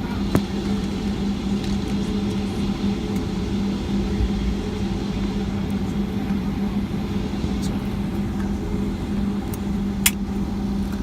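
Steady low vehicle engine hum with a constant droning tone, heard from inside the vehicle, with a few faint clicks and one sharp click near the end.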